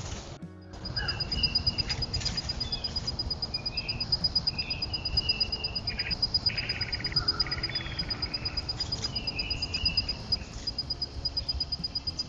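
Rapid, even, high-pitched chirping pulses, several a second and without a break, with scattered short higher chirps over a low rumble of outdoor background noise.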